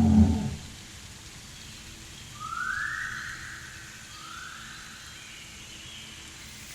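A low pitched sound fades out in the first half second. Then, over a faint steady hiss, come two short rising whistles about two seconds apart, the first louder.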